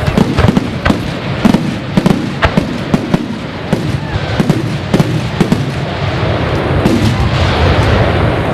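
Aerial fireworks display going off: many sharp bangs and crackles in quick, irregular succession over a continuous low rumble, growing into denser crackling toward the end.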